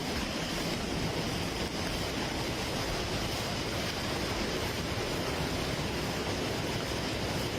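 Steady rushing noise of water, with wind noise on the microphone.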